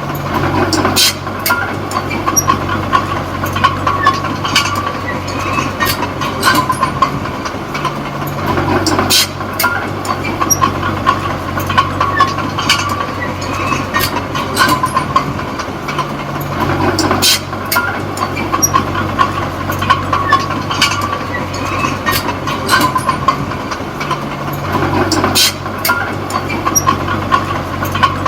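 Small D20P crawler bulldozer working: its diesel engine runs steadily, and its engine note shifts roughly every eight seconds as it changes between pushing and backing. Its steel tracks clank and rattle throughout.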